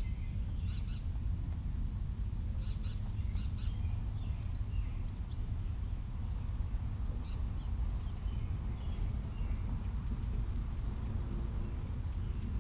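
Small birds chirping in short, high calls off and on, over a steady low rumble.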